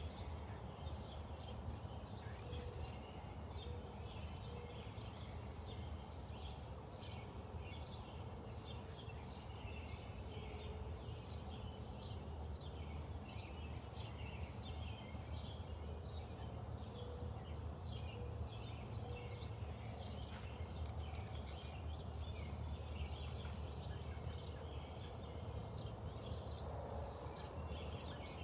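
A small songbird chirping over and over, short high chirps about twice a second, over a steady low rumble.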